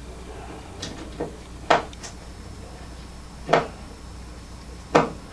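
Sharp clicks and knocks of hand work while tweeters are being removed from a speaker cabinet, with about six separate strikes, the loudest near the middle and the end.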